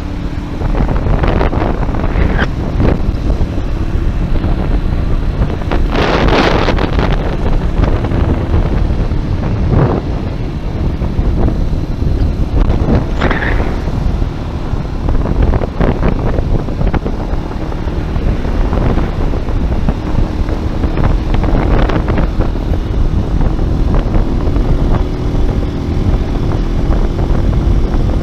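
Wind rushing loudly over the microphone of a moving motorcycle ridden in the rain, with the engine running steadily underneath and a few brief louder gusts.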